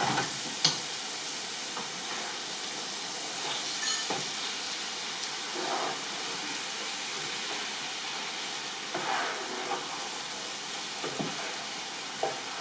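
Chicken tikka masala sizzling steadily in oil in a large cooking pan, with a few brief scrapes and clicks of stirring. The oil has separated from the masala, the sign that it is cooked.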